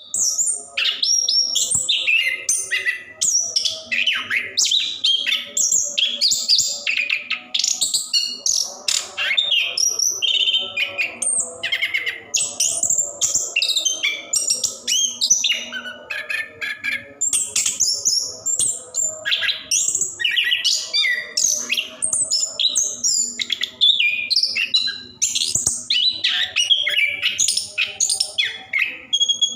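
Chestnut-capped thrush (anis kembang) singing continuously in a rapid, varied run of high whistled and chattering phrases with hardly a pause.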